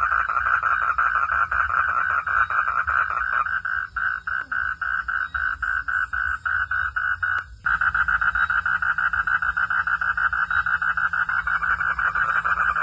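Frogs calling in a steady chorus, a fast, even train of pulsed calls. About seven and a half seconds in it cuts out briefly with a sharp click, then resumes louder.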